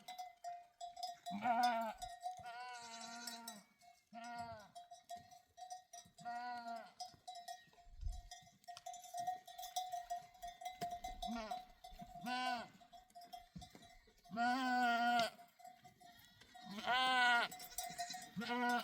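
A flock of sheep bleating again and again, about nine wavering calls of one to two seconds each, some overlapping. Livestock bells ring steadily underneath.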